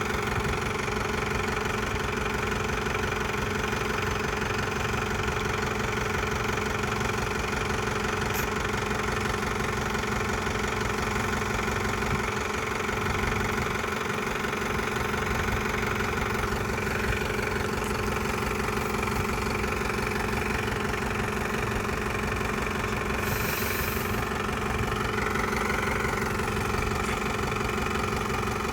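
Mahindra tractor's diesel engine running steadily at an unchanging speed.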